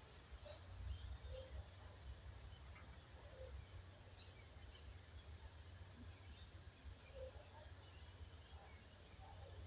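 Faint birds calling in short, scattered chirps over a steady low background rumble.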